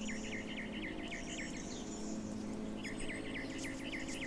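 A songbird singing two quick runs of repeated chirping notes, about six a second, with a pause of about a second and a half between runs. Insects buzz faintly and high in the background, over a steady low hum.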